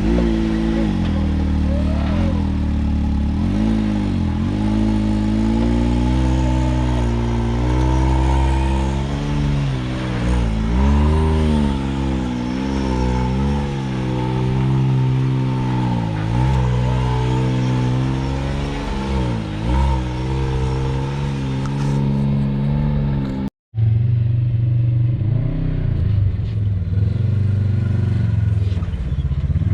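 Off-road side-by-side engine revving up and down over and over as the throttle is worked on an obstacle, with a brief dropout about three-quarters of the way through, after which the engine runs on.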